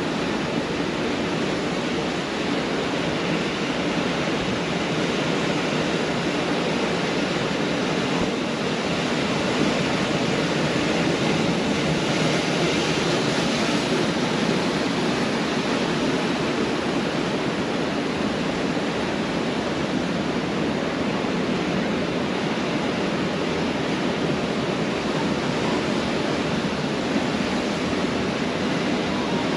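Pacific Ocean surf: waves breaking and washing up on a beach in a steady, continuous rush, swelling slightly about ten seconds in.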